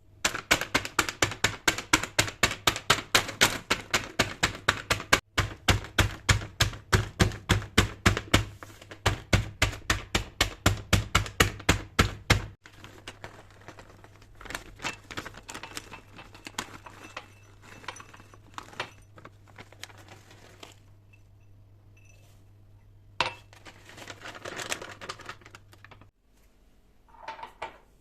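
Rapid, even knocking, about four to five strokes a second, stopping suddenly about twelve seconds in; then scattered softer knocks and light clatter over a low steady hum.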